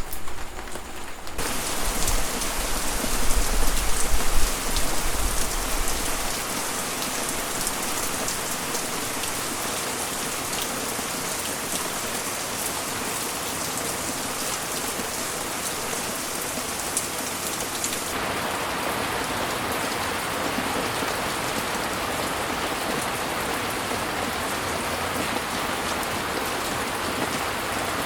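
Rain falling steadily in an even hiss. A low rumble comes under it for a few seconds near the start. The rain's texture changes abruptly a little past halfway, turning duller and fuller.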